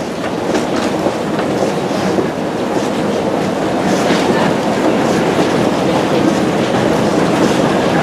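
Airport airside transit train (automated people mover) running: a steady rumble with clicks and clatter from the wheels and track.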